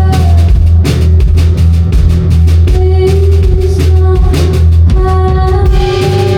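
Live band playing loud music: a driving drum kit with kick and snare over heavy bass, with held pitched notes above.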